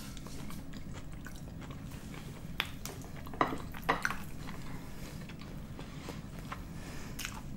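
Close-up mouth sounds of someone chewing a mouthful of sausage, with soft wet clicks and smacks throughout and a few sharper ones around the middle.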